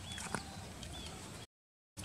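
Short high chirps of birds over a steady outdoor background, with one sharp click about a third of a second in; the sound cuts to dead silence about one and a half seconds in.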